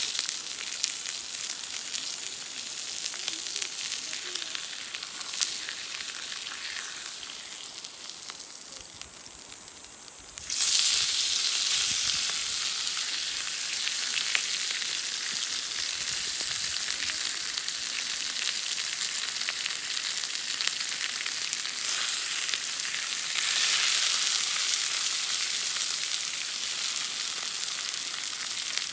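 Steak sizzling over a campfire. The sizzle slowly dies down, jumps suddenly louder about ten seconds in, and swells again a little later.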